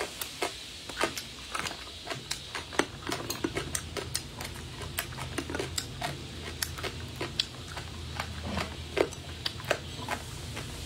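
Close-miked chewing of crunchy pickled shredded papaya: a quick, irregular run of crisp clicks and crackles.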